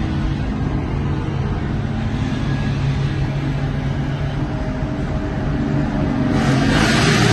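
Car engine droning steadily while driving, heard from inside the car, with a loud rush of road and wind noise coming in near the end.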